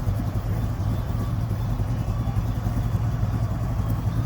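A vehicle engine running steadily, a low, even rumble.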